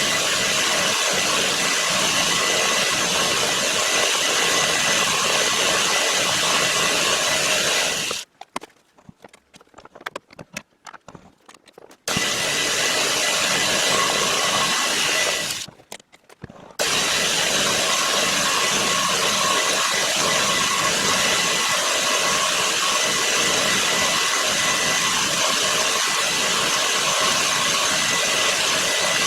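A shop machine running steadily with a hissing, rushing noise and a steady high whine. It cuts out abruptly twice: for about four seconds a little past a quarter of the way through, and for about a second soon after.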